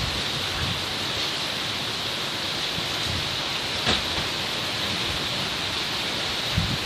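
Heavy thunderstorm rain falling with a steady hiss, with one sharp tap about four seconds in.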